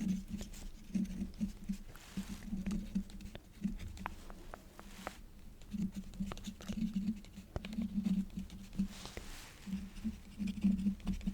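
Quill nib scratching across paper in short strokes, with light ticks of the nib, over a low hum that comes and goes in short patches.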